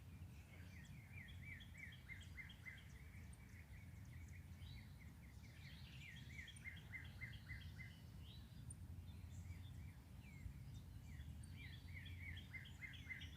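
Faint songbird song: fast runs of repeated chirping notes, in three bouts a few seconds apart, over a low steady background rumble.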